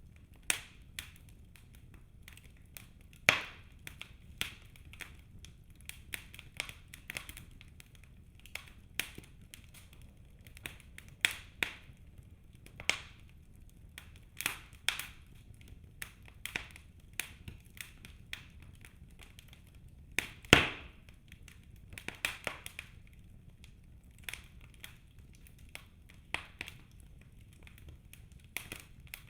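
Birch-log wood fire crackling in a fireplace: irregular sharp snaps and pops over a low steady hiss, with a few louder snaps, the loudest about two-thirds of the way through.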